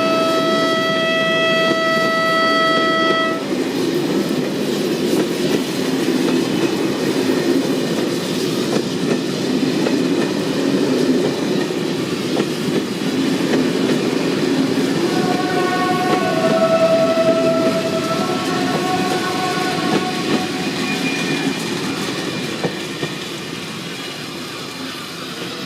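A diesel locomotive-hauled passenger train pulls away and passes: a long horn blast ends about three seconds in, then the engine and wheels rumble on the rails. The horn sounds again as a few shorter overlapping notes midway, and the train slowly fades as it draws away.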